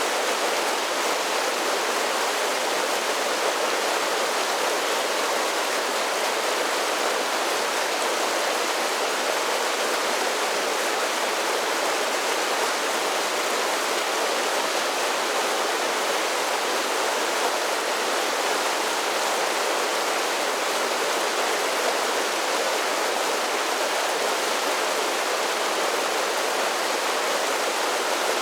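Creek water pouring down a series of falls: a steady, even rush of water that does not change.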